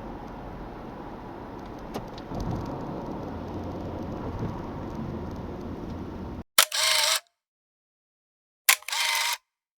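Honda Freed's 1.5-litre gasoline engine and road noise as the car drives along, a steady rumble. About two-thirds of the way in the sound cuts off suddenly to silence, broken by two short, loud, noisy bursts a couple of seconds apart.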